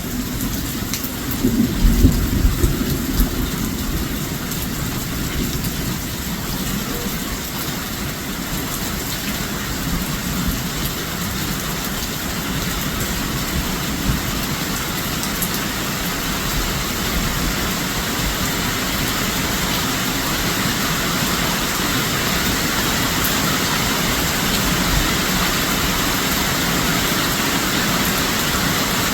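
Heavy storm rain falling steadily, with a louder low rumble about two seconds in.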